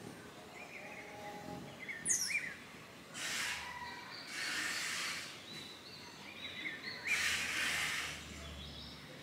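Scattered short bird chirps, with a quick falling whistle about two seconds in. Three bursts of hissing noise, about a second each, come three, four and a half, and seven seconds in, and are the loudest sounds.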